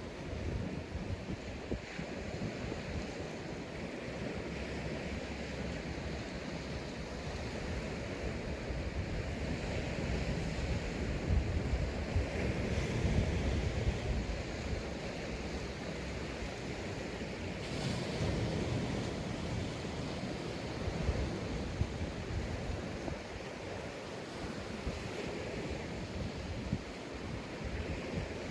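Sea waves breaking and washing up a sandy beach, a continuous surf wash that swells and eases, with wind buffeting the microphone.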